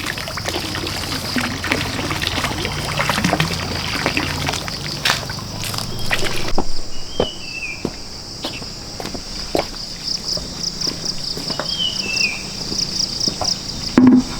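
Steady high-pitched insect drone, pulsing near the end, over scattered knocks and light water splashing and trickling. A bird gives a short falling chirp twice.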